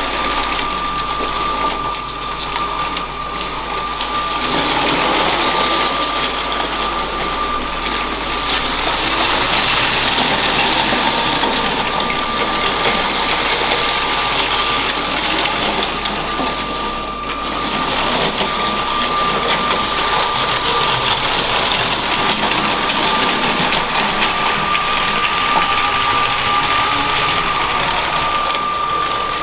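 LEGO train running on plastic track: the small electric train motor gives a steady high whine over the clatter of wheels and gears. It grows louder and fainter as the train moves round the layout.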